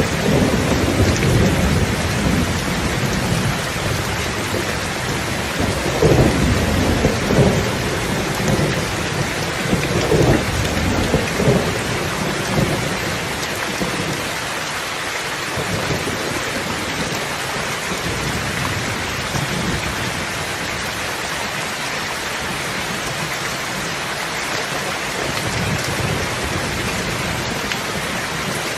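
Steady heavy rain hissing, with rolling thunder rumbling through the first half and fading away, leaving only the rain.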